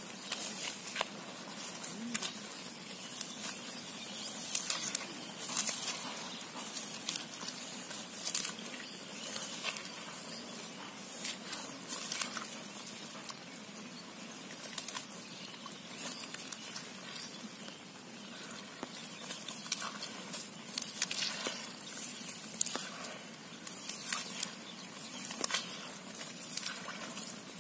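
Rain falling on an umbrella overhead: a steady hiss of rainfall with frequent, irregular sharp ticks of drops striking the canopy.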